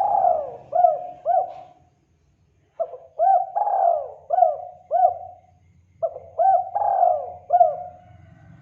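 Spotted dove (tekukur) cooing: phrases of about five low, arched coo notes, repeated with short pauses, about three phrases in all.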